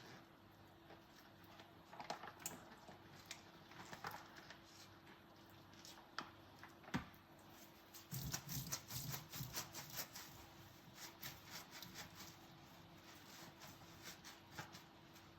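Soft clinks and knocks of dishes and utensils being handled during hand dishwashing, with a quick flurry of clicks about eight seconds in, over a faint steady hum.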